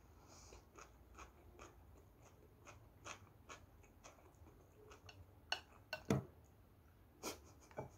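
Quiet close-up chewing of a kimbap mouthful, then plastic training chopsticks clicking and tapping as they pick at pickled cucumber slices on a plate, with a few sharper clicks in the second half.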